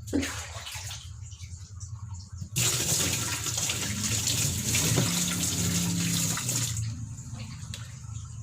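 Running water splashing hard for about four seconds, starting about two and a half seconds in, as dirt is rinsed off a washing-machine pulsator.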